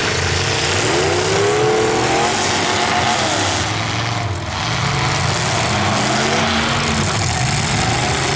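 Engines of several full-size demolition derby cars running and revving, their pitches rising and falling over one another.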